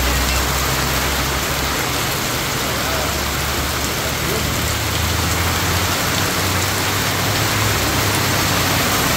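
Heavy tropical rain pouring steadily onto a paved road and trees, an even, unbroken hiss, with a low rumble underneath.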